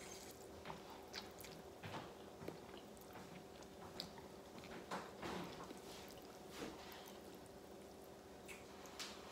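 A person eating instant cup noodles with chopsticks: faint slurps and wet chewing, in scattered short bursts.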